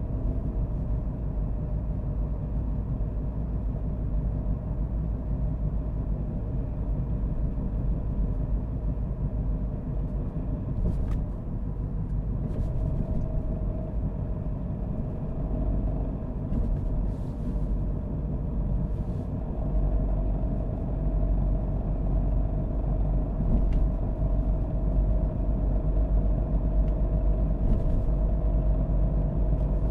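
Car driving at steady speed: a low rumble of tyres and engine with a steady hum over it, and a few faint ticks now and then.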